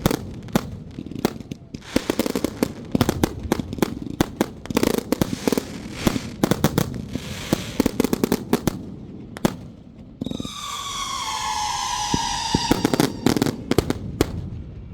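Strings of firecrackers popping in rapid, overlapping volleys for about ten seconds. A steady high whistle then holds for about two seconds, slowly dropping in pitch, before more popping near the end.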